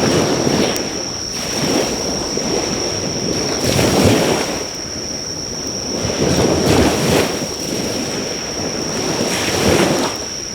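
Sea waves washing onto the shore in repeated surges that swell and fade every few seconds, under a steady high-pitched insect trill. A faint crackle or two comes from the driftwood bonfire.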